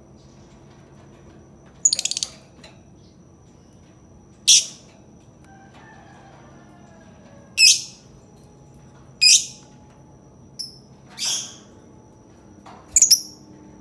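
Lovebird giving short, shrill chirps at intervals of one to three seconds, about seven in all. The first, about two seconds in, is a rapid stuttering chatter, and near the end two calls come close together. A soft, lower warbling runs briefly between them.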